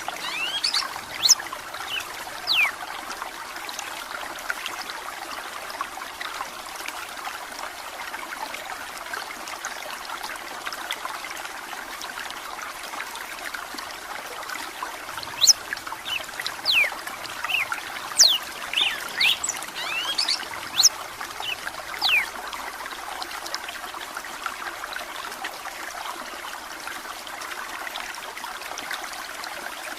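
Steady trickling running water, with a red-cowled cardinal (galo-de-campina) singing short phrases of sweeping whistled notes over it: a few notes at the start, then a longer burst of song from about halfway to two-thirds of the way through.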